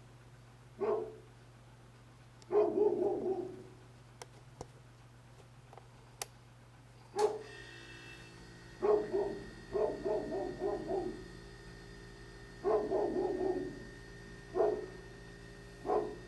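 A dog barking over and over, in single barks and quick runs of two to four, with pauses of a second or more between.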